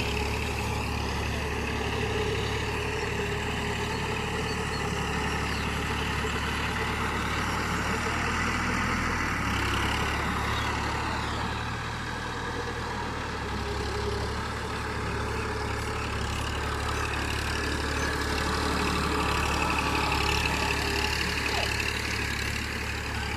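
Tafe 45 DI tractor's diesel engine running steadily, its speed rising and falling a little and easing briefly midway.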